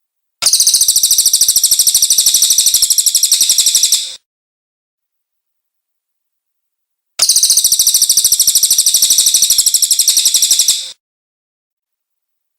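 Cililin bird song: a rapid, evenly pulsed high trill heard twice, each lasting about three and a half seconds, separated by a few seconds of silence.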